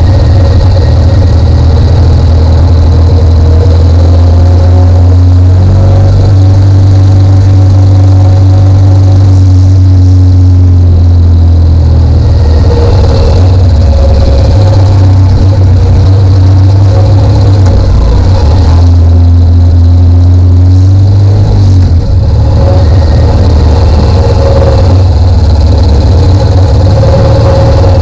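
Motorcycle engine running with a heavy low rumble close to the microphone, its pitch rising and easing back about six seconds in and again near twenty seconds.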